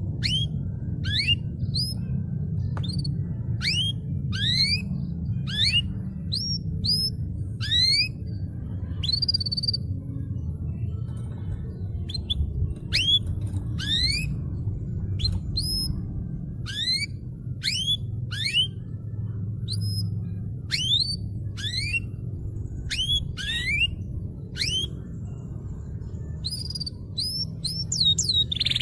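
Canary calling: a series of separate rising chirps, about one a second, over a steady low background rumble.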